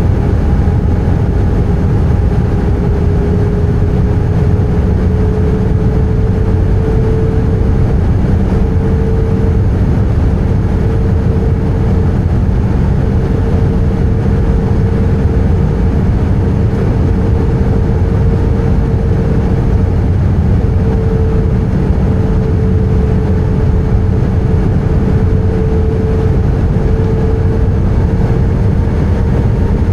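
Airbus A320 cabin noise heard from a window seat in flight: a steady low roar of the jet engines and rushing air, with a steady hum over it.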